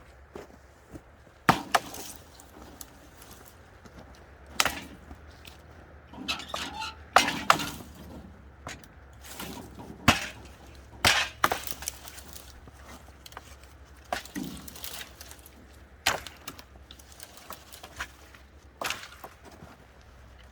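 Small branches being broken up for kindling: a series of irregular sharp wooden cracks and knocks, some in quick clusters.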